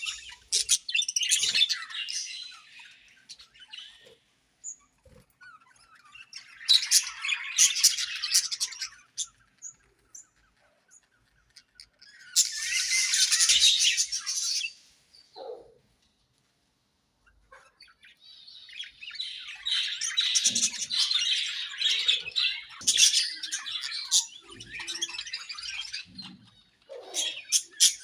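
A colony of budgerigars chirping and warbling in bouts of a few seconds each, with a few short squawks and brief quiet gaps between the bouts.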